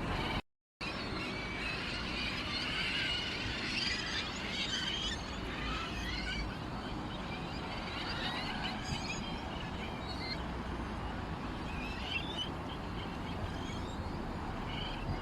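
Many small birds chirping and twittering together, short overlapping chirps and trills over a steady background hiss, with a brief dropout about half a second in.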